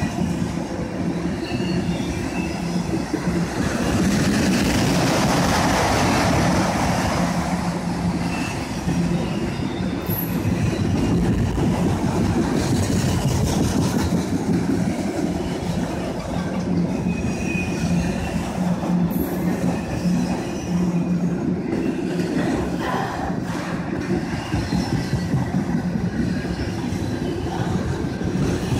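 CSX freight train of autorack cars rolling past at track speed: a steady rumble of steel wheels on rail with clickety-clack over the joints and short, thin wheel squeals, swelling louder for a few seconds near the start.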